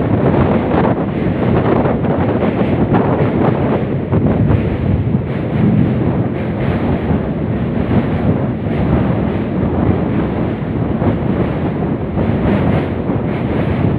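Steady wind buffeting the microphone over the running rumble of a moving passenger train.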